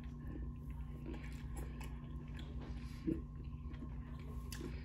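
Close-up chewing of a mouthful of sandwich with the mouth closed, with soft wet mouth clicks and one brief louder sound about three seconds in, over a steady low hum.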